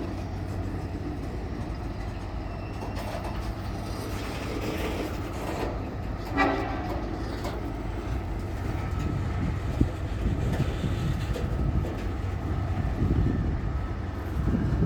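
Freight train's diesel locomotives rumbling steadily, with a short pitched tone about six and a half seconds in and the rumble growing louder over the last few seconds.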